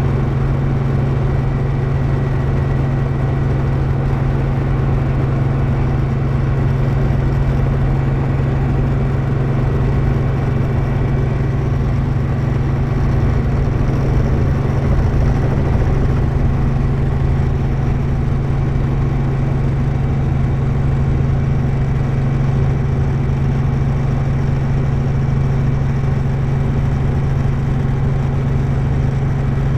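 Helicopter in flight, heard from inside the cabin: a steady, loud drone of the rotor and engine, unchanging throughout.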